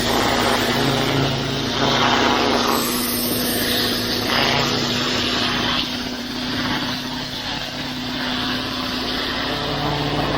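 Pressure washer running steadily: the machine's engine hum under the hiss of the high-pressure water jet blasting the driveway, the hiss swelling and easing a little as the lance moves.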